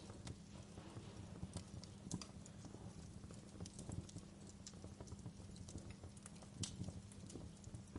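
Wood fire crackling: irregular sharp pops and snaps over a faint steady low rumble and hiss, with a louder snap about two-thirds of the way through.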